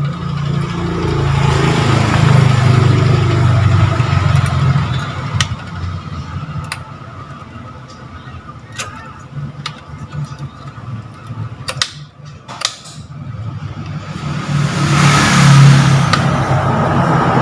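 Motor vehicles passing, their engine hum swelling and fading twice, with scattered sharp clicks in between.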